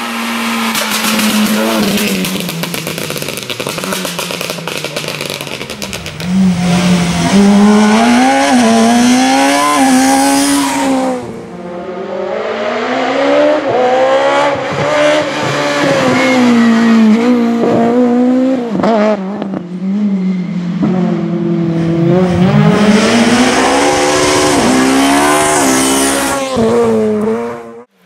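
Rally cars driven flat out on a stage, their engines revving up and down through gear changes and lifts, with tyre noise. There is a dip about eleven seconds in, and the sound cuts off abruptly near the end.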